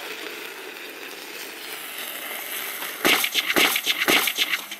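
Water hitting boiling vegetable oil: after a steady hiss, the oil erupts about three seconds in with a violent spell of loud, irregular sputtering and spattering lasting about a second and a half, then falls back sharply near the end.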